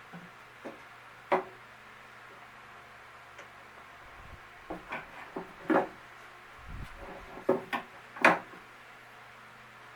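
Irregular knocks and clatter of wooden cabinet pieces being handled and set down on a bench, about eight sharp hits, the loudest near the end.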